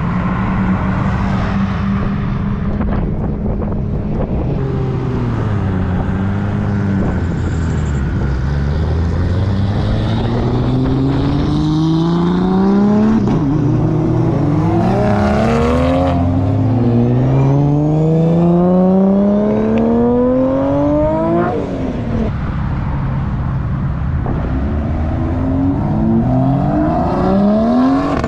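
Car engine, plausibly a turbocharged Toyota Supra, running hard: its pitch sinks early on, then climbs in long rising sweeps. It drops back at each upshift as the car accelerates through the gears, and climbs again near the end.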